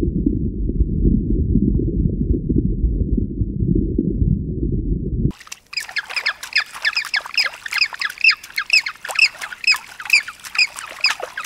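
A loud low rumbling noise that cuts off suddenly about five seconds in, followed by birds squawking in quick repeated calls, several a second.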